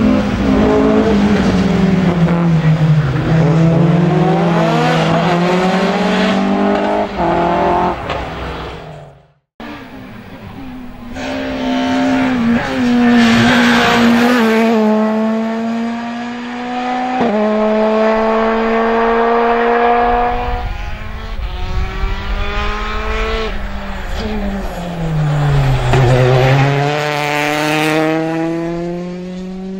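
Rally cars racing hard, their engines rising and falling in pitch as they brake and accelerate through the corners, with gear changes and tyre noise. The sound cuts out abruptly about nine seconds in, then the engines return.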